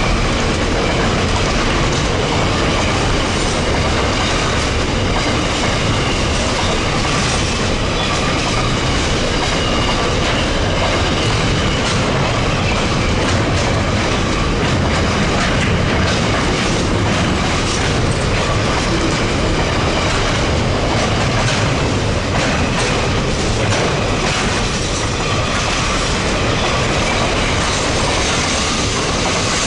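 Empty freight wagons of a long train rolling steadily past, their wheels clicking and clacking over the rail joints.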